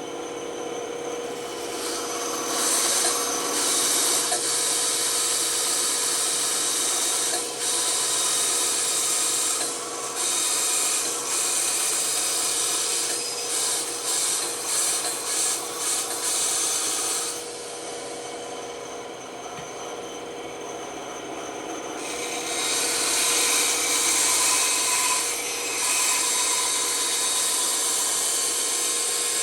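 Bandsaw running with a steady hum, its blade cutting through wood in long hissing spells. The cutting stops and starts a few times and falls silent for a few seconds past the middle, leaving the hum.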